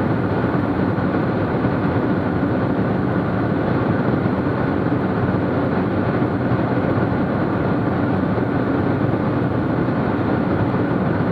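Cessna T210's turbocharged flat-six piston engine and propeller droning steadily in flight, heard as constant cabin noise.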